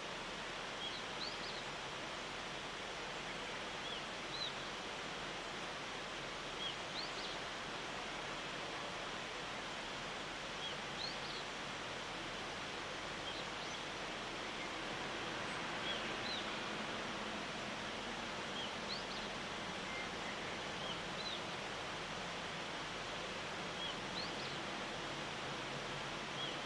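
Short, high bird chirps repeating every second or two over a steady hiss of background noise.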